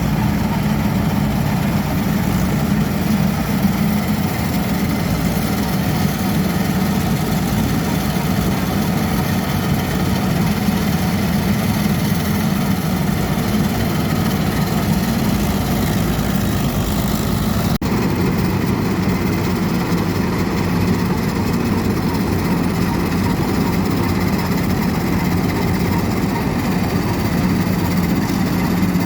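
Heavy farm diesel engine running steadily and loudly, with a brief dropout about 18 seconds in.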